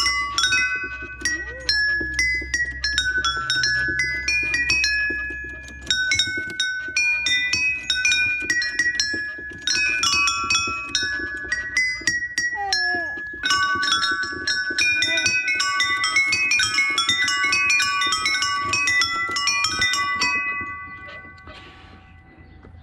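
Playground musical instrument ringing out bright bell-like chime notes in quick melodic runs, played by a small child, each note ringing on before dying away near the end.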